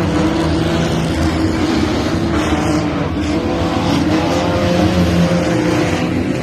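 Race car engines running at speed during a short-track race, with a steady engine note over loud road and tyre noise that stays at an even loudness throughout.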